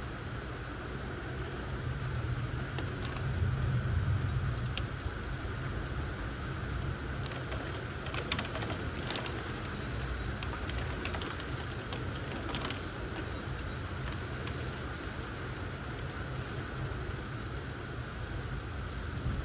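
Steady rain in a thunderstorm, with a low thunder rumble swelling a few seconds in and fading. Scattered sharp drip taps come through around the middle.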